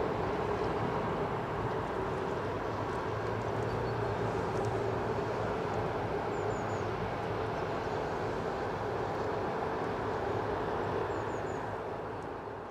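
Freight train hauled by an ST43 diesel-electric locomotive moving away: a steady engine-and-wheel drone that slowly gets quieter.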